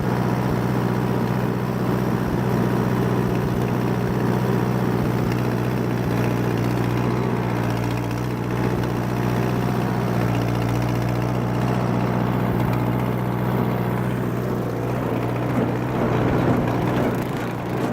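1958 Allis-Chalmers D14 tractor's four-cylinder engine running steadily under load, driving a Woods brush hog rotary mower through the power takeoff while cutting grass.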